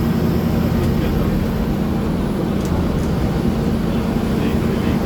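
Steady rumble of a vehicle travelling at speed on a highway: engine and tyre-on-road noise, with a couple of faint ticks near the middle.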